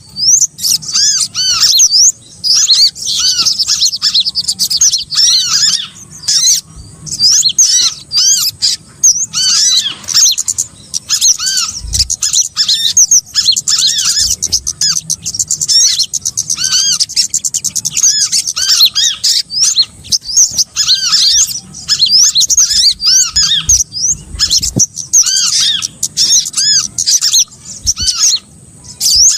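A bird-lure recording of small songbirds calling: a dense, continuous stream of rapid high chirps and twittering, with lower arched whistled notes repeated among them.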